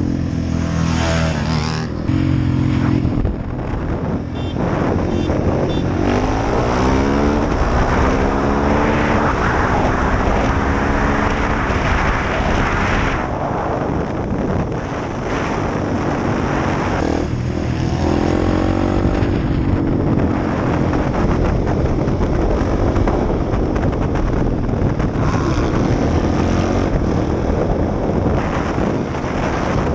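KTM 690 SMC-R's single-cylinder engine from the rider's seat, accelerating through the gears in repeated rising sweeps, easing off about thirteen seconds in, then pulling up through the gears again.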